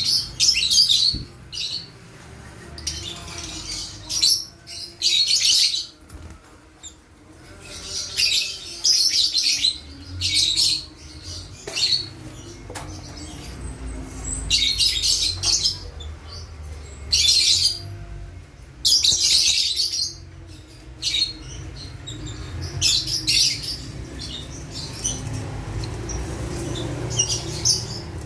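Lovebirds chattering in repeated bouts of shrill, high-pitched calls, each about a second long, with short pauses between them.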